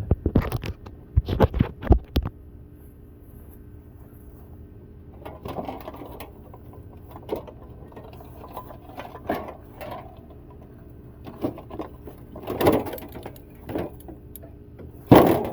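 A window air conditioner being taken apart for scrap: a quick run of sharp metal knocks and clanks in the first two seconds, then scattered scraping and clattering, with a louder knock near the end.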